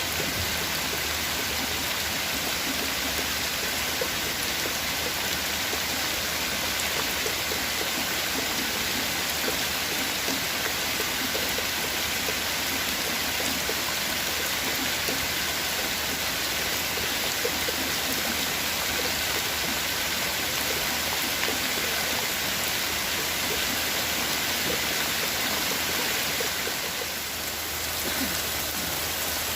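Steady rain falling, an even hiss, dipping briefly near the end.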